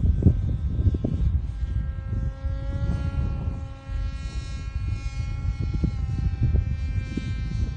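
Radio-controlled model airplane's motor and propeller giving a steady whine that dips slightly in pitch about six seconds in. Wind buffets the microphone throughout.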